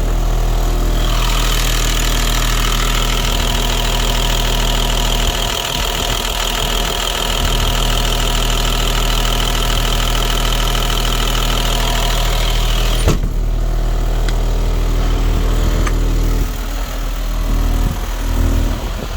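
Caterpillar diesel engine of a 2004 Blue Bird school bus idling steadily. A high whine sits over it from about a second in and stops with a single sharp knock about thirteen seconds in.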